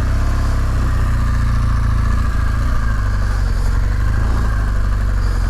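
Motorcycle engine idling steadily, just after being started.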